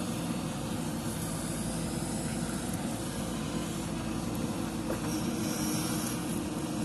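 Heavy diesel earthmoving machinery running steadily under work, with a steady low drone, and a brief higher hiss about five seconds in.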